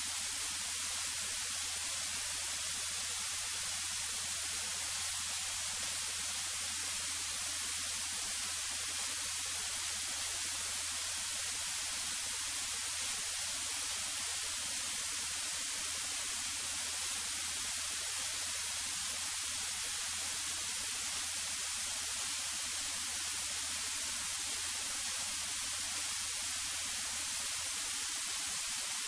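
Steady static hiss of a cockpit intercom audio feed, with a faint steady low hum underneath.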